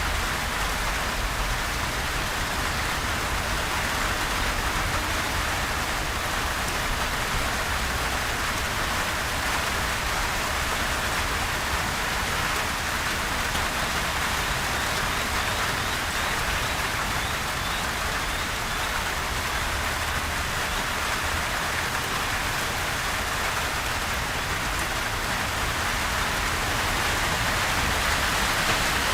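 Steady rain falling, a constant even hiss of drops with no thunder.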